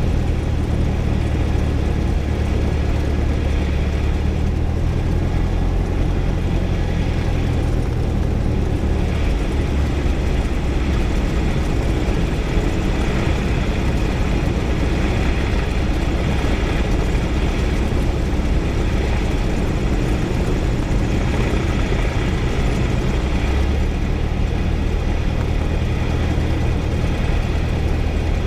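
A Cessna's piston engine and propeller running steadily at low power, heard from inside the cabin, through the landing roll of a touch-and-go.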